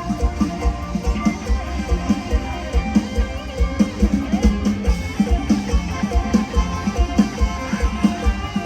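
Isan Thai band music with no singing: guitar over a drum kit keeping a fast, steady beat.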